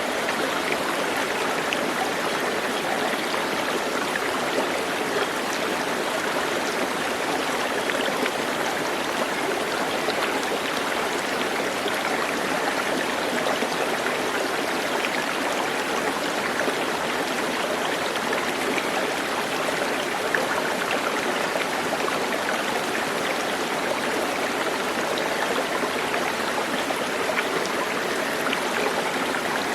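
Steady running water of a stream, an even rushing with no change or break.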